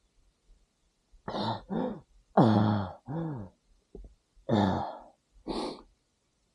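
A man coughing, clearing his throat and groaning in about six short bursts, several falling in pitch; he is out of breath after hard riding. No engine is running.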